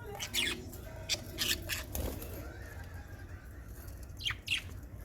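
Pet lovebirds chirping in short, sharp, high calls that come in scattered clusters, over a low steady hum.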